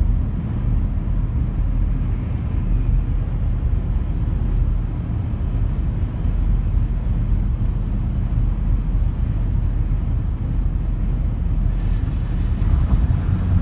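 Steady low rumble of a truck being driven, heard from inside the cab: engine and road noise at an even cruising speed.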